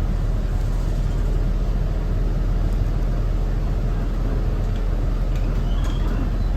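A 2018 Thomas Saf-T-Liner C2 school bus's Cummins ISB 6.7 six-cylinder turbo-diesel running, with a steady low rumble, heard from on board. A few faint clicks and a brief high tone come near the end.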